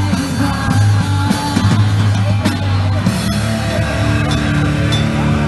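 Rock band playing live: electric guitar, bass and drum kit in an instrumental passage without vocals. About three seconds in, the playing changes from a busy moving bass line to longer held notes.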